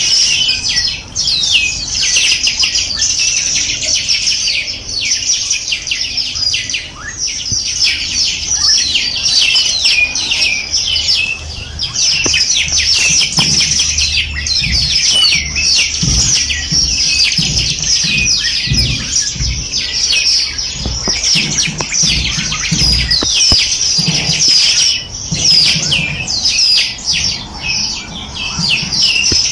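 A dense chorus of many small songbirds chirping and twittering at once, rapid short notes overlapping without a break. A low rumble runs underneath for a stretch in the middle.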